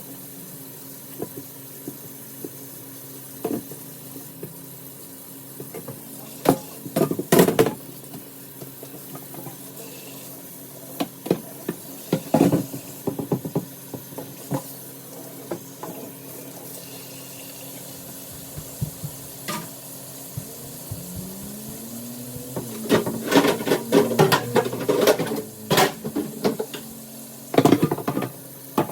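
Dishes and kitchenware clinking and clattering during hand washing at a kitchen sink, in several separate bursts of knocks, over a steady low hum.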